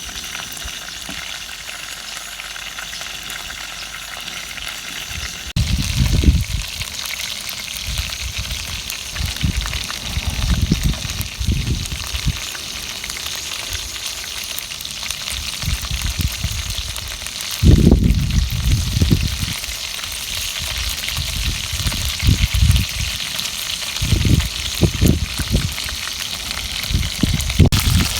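Food sizzling steadily as it fries in a pan, with irregular dull low thumps over it.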